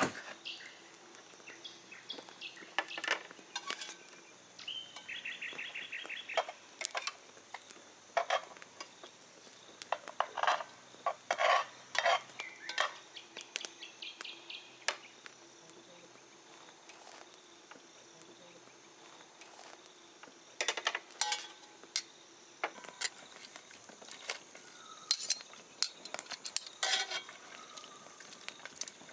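Cooking utensils and dishes clinking and knocking, irregular sharp clicks in clusters with a quick rattle about five seconds in, while birds call in the background.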